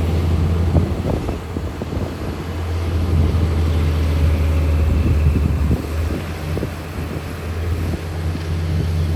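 Heavy diesel earthmoving machinery running steadily under load, a deep engine drone overlaid with irregular clanks and rattles.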